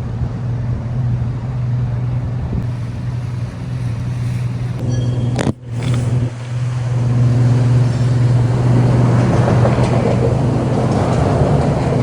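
Boat motor running steadily under way, with a rushing noise that swells from about seven seconds in. The sound cuts out briefly about halfway through.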